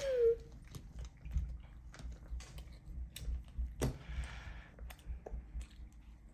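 Scattered light clicks and taps, like small objects handled on a table, with a short rising-then-falling vocal sound right at the start and a brief hiss about four seconds in.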